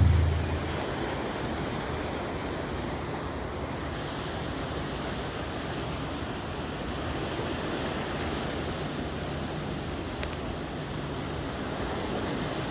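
Steady outdoor rush of wind and water with a faint low hum underneath, opening on the fading tail of a loud thump.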